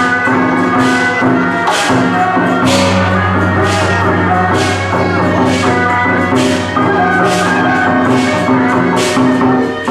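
Procession music: melodic lines over a steady drone, with cymbal crashes about once a second.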